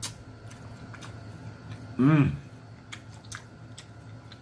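A man chewing king crab meat, with a few small sharp clicks, and one short hummed 'mmm' of enjoyment about two seconds in whose pitch rises and then falls.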